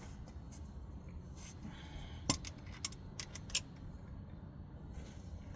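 A few light metallic clinks of hand tools against metal, about four short ticks within a second and a half near the middle.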